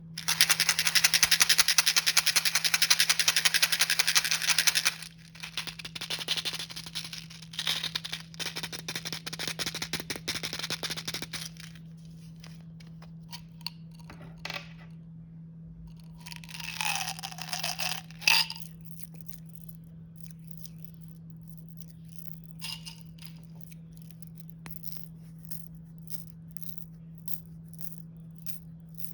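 Snack packaging handled and opened: about five seconds of dense, rapid rattling and crinkling, then irregular crinkles for several seconds, two short louder bursts, and a few sparse small clicks near the end. A steady low hum runs underneath.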